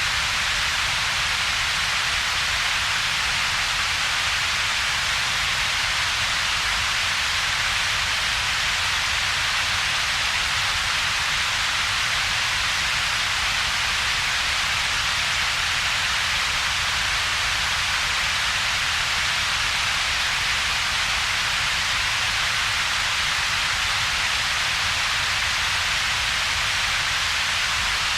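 Steady computer-generated noise with two peaks: a strong hiss centred in the upper mid range and a weaker low rumble underneath, with a hollow gap between them. It is unchanging throughout, like a constant hiss of rain.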